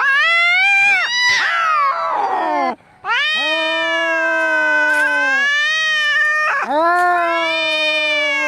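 Angry cat caterwauling: three long, drawn-out yowls, each rising and falling in pitch. Partway through the first yowl the sound turns rough and harsh, typical of a cat fight.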